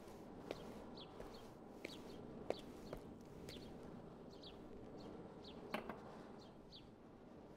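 Birds chirping, short high notes repeating about twice a second over faint outdoor ambience, with a few soft knocks, the sharpest about two and a half seconds in and another near six seconds.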